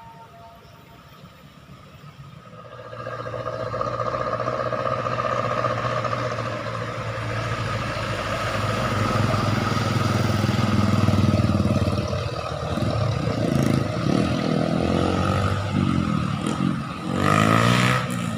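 Road traffic: a vehicle's engine comes in loud about three seconds in and keeps running steadily. More vehicles pass near the end, with a sharp noisy swell just before the end.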